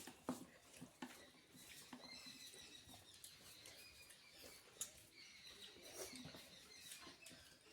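Faint eating sounds: scattered soft clicks and smacks of a person chewing a rice meal. Faint high chirping runs through the middle.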